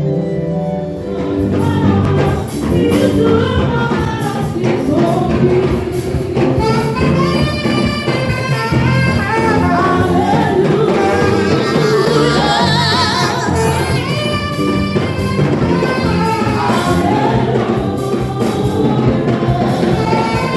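Gospel music: voices singing over instruments with a steady percussive beat.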